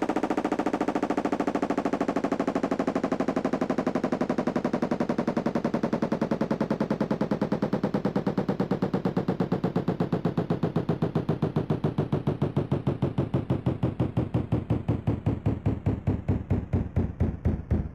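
Candy washing machine winding down from a spin: a rapid, rhythmic pulsing with a falling whine, both slowing steadily as the drum loses speed.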